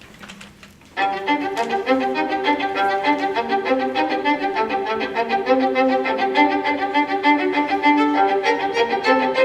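Violin music that starts about a second in: a fast, busy run of short notes. Before it there is only the quiet of the room.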